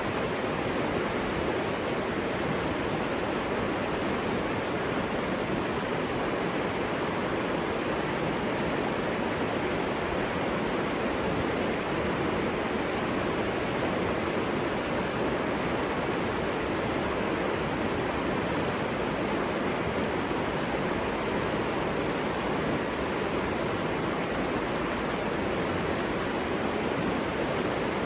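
River water flowing, an even rushing noise that stays steady throughout.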